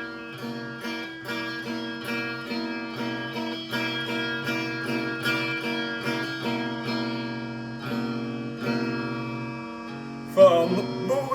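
Music: an acoustic guitar plucking notes in a steady rhythm, with a short vocal sound near the end.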